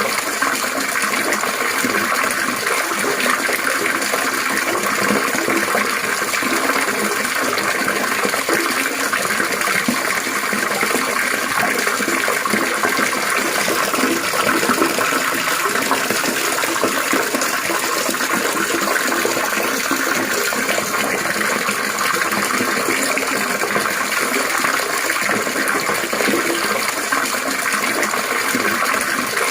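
Continuous trickling, splashing water, steady and even throughout.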